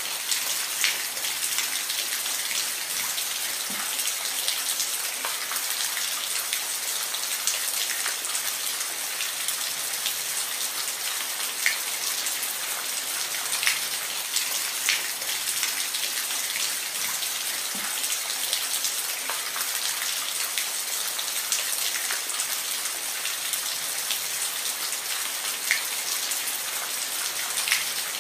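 Steady rain falling, a constant hiss with scattered louder individual drops ticking on a hard surface.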